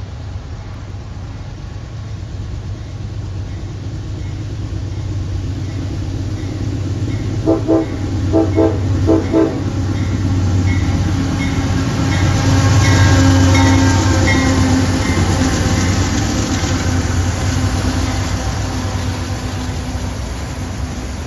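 A train approaching and passing with a low rumble that builds to its loudest just past the middle and then eases off. The locomotive horn gives three short blasts shortly before the train is at its loudest, and a faint, even ticking runs through much of the pass.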